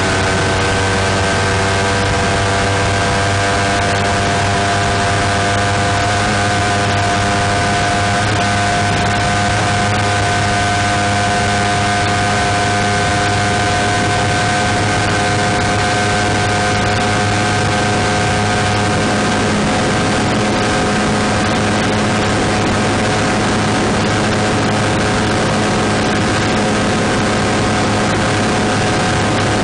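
Suzuki Satria F150 FI's single-cylinder engine through an Over Racing aftermarket exhaust, held at high revs in fifth gear on a top-speed run. Its pitch climbs slightly over the first several seconds, then holds steady.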